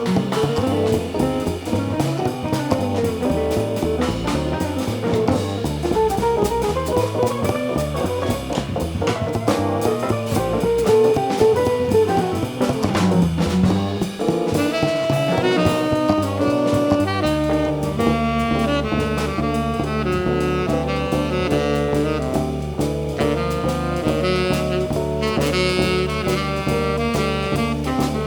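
A live jazz combo playing, with saxophone lines over drum kit. About two-thirds of the way through, the low end settles into a steady repeated figure.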